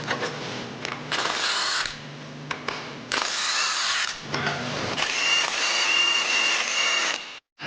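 A power tool runs in short bursts, then in a longer stretch with a steady high whine near the end, as fasteners are undone during the teardown of a diesel engine.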